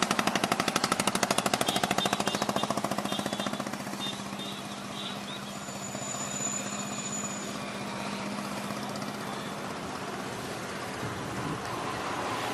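Train noise: a fast, even rattle of sharp knocks for about the first four seconds, then settling into a steadier rumble with a low hum.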